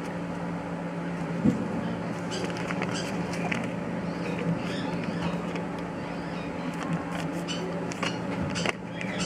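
A steady low hum with a few fixed pitches, with scattered faint clicks and rustles over it and a sharper knock about a second and a half in.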